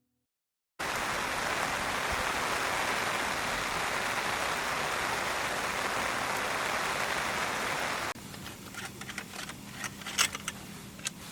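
Steady rain falling hard. About eight seconds in it cuts to a quieter patch with scattered light taps and clicks, one sharper than the rest near the end.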